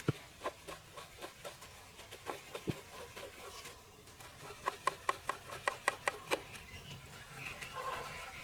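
Scattered light clicks and taps, with a quick, even run of about eight clicks a little past the middle.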